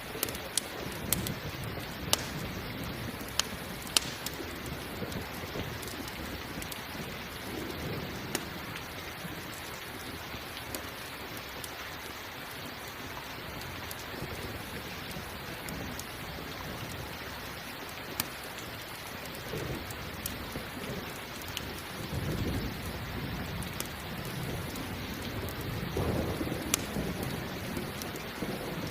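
Steady rain falling, with campfire crackling in sharp pops, most of them in the first few seconds. Low thunder rumbles twice near the end.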